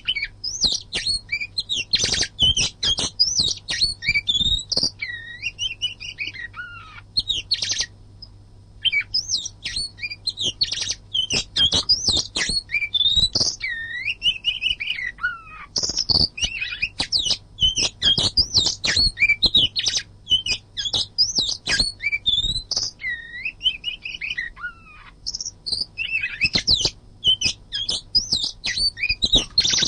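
Oriental magpie-robin (kacer) singing a dense, continuous song of fast, varied whistles, sweeps and sharp notes, pausing briefly twice. A faint steady low hum lies beneath.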